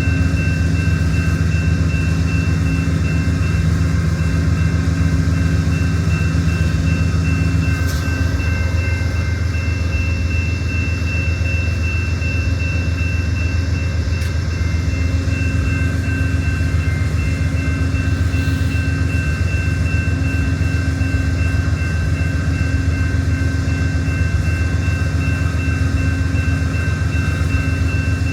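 Amtrak Borealis diesel locomotive idling while the train stands at the station: a loud, steady low rumble with a constant high whine over it.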